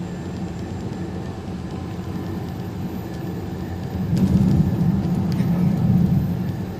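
Truck engine and road noise droning inside the cab while driving on the highway; the low drone swells for about two seconds a little past the middle, then settles back.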